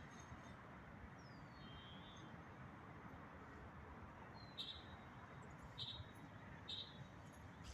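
Faint outdoor ambience: a steady low background hiss with a few short, high bird chirps. There is one falling chirp about a second in and three brief chirps roughly a second apart in the second half.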